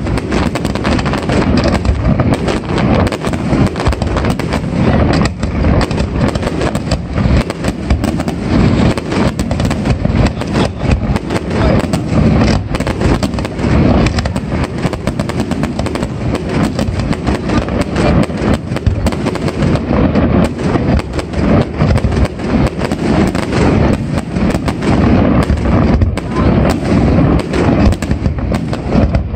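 Aerial fireworks display: rockets and shells bursting in a rapid, unbroken string of bangs and crackles.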